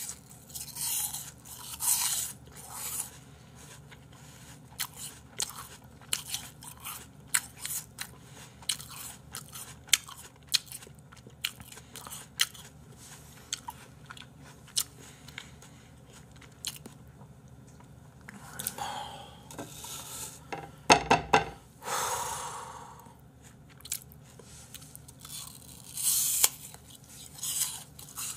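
Close-up crunching and chewing of raw apple slices, with many short crisp crunches, and a louder stretch of noise about twenty seconds in.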